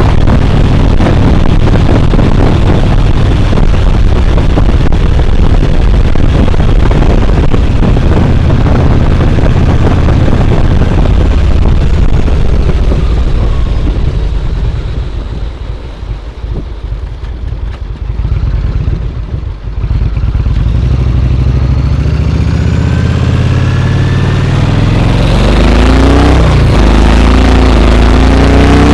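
Yamaha Road Star XV1600's V-twin engine running under way. It goes quieter for a few seconds in the middle, then rises in pitch as the bike accelerates near the end.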